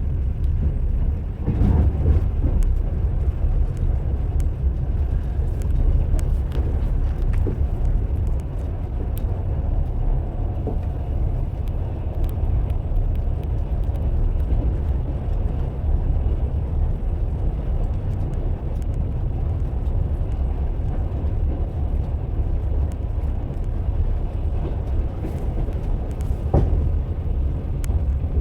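Train wheels running on rail: a steady low rumble of the wheels on the track, with a couple of sharper knocks, about a second and a half in and again near the end.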